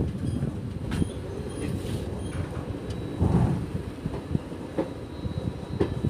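Moving train heard from an open carriage doorway: a steady low rumble of wheels on the track, with irregular sharp knocks from the wheels.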